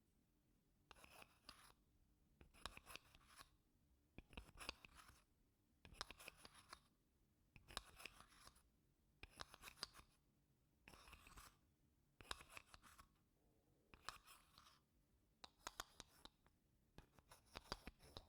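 Wooden spoon scraping across wooden blocks in slow, even strokes, one short crackly scrape about every one and a half seconds. Soft throughout.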